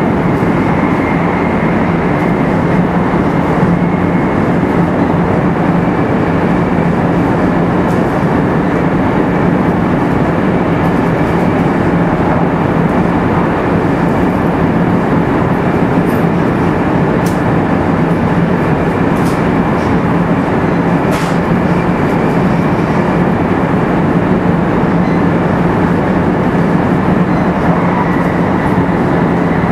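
JR West 500 series Shinkansen running at speed, heard from inside a motor car: a steady rush of wheel and air noise over a steady low hum, with a few faint ticks partway through.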